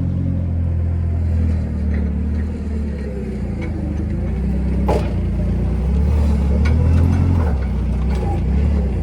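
An engine running steadily at low speed, with a sharp metallic knock about five seconds in and a few lighter clinks.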